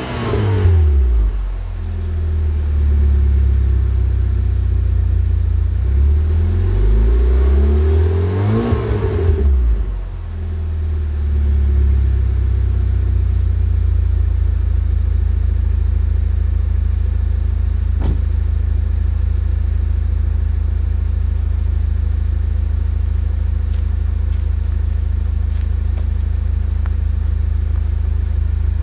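Volkswagen Mk6 GTI's turbocharged 2.0-litre four-cylinder running through a custom turbo-back exhaust after a cold start. It is revved briefly at the start and again for a couple of seconds about eight seconds in, then settles to a steady idle.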